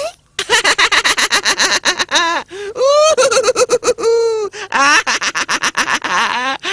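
A cartoon character's voice laughing in quick pulses, then drawn-out wordless cries that rise and fall in pitch.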